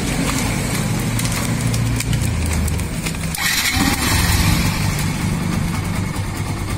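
Yamaha FZ V1's single-cylinder engine idling steadily, with a short burst of hiss about halfway through. It is running so the battery charging from a newly fitted Pulsar 135 regulator-rectifier can be checked.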